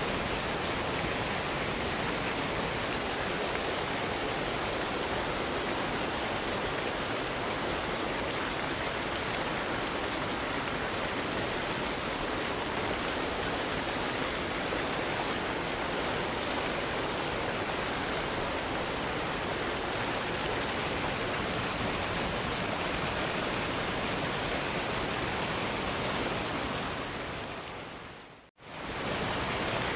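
Waterfall rushing: a steady, even roar of falling water. Near the end it fades away to silence and swells straight back up.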